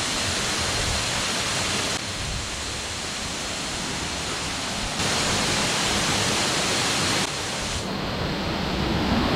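Steady rushing of water, an even roar with no distinct events, whose level jumps up or down abruptly a few times.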